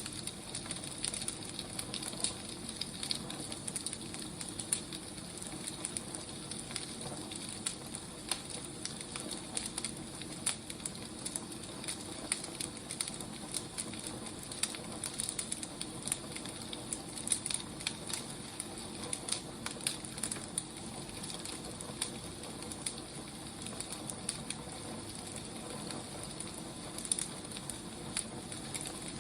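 Firewood burning: a steady low hiss with frequent small pops and crackles scattered irregularly throughout.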